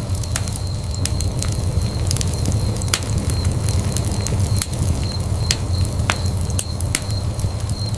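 Wood fire burning in a fireplace, with a steady low rumble and sharp crackles and pops at irregular moments, several a second.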